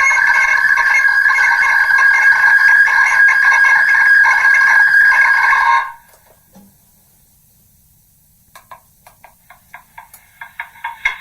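Megaphone playing back a recording of a recording of speech, re-recorded so many times that the words have eroded into a loud fluttering ringing tone. It cuts off suddenly about halfway through; after a short quiet gap, quick pulses of the same ringing come back and grow louder.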